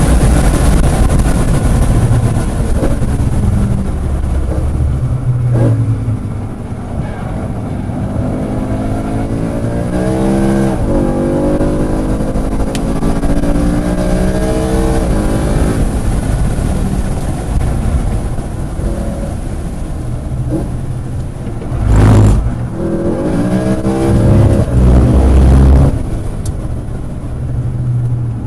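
Sports car engine on a race track, heard from on board as it is driven hard. The engine note rises and falls through acceleration and gear changes, with strong climbing sweeps about ten seconds in and again just after twenty seconds. A loud burst of noise comes just before the second sweep.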